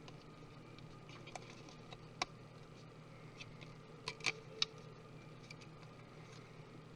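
Light clicks and taps of small tools and parts being handled during a laptop teardown: a few scattered ticks, then a quick cluster of three sharper clicks about four seconds in, over a faint steady hum.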